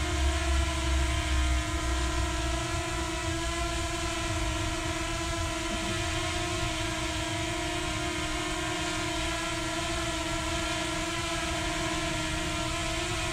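Quadcopter drone propellers humming: a steady whine of several held tones that wavers slightly in pitch but holds level throughout. A low rumble sits under it for the first second and a half.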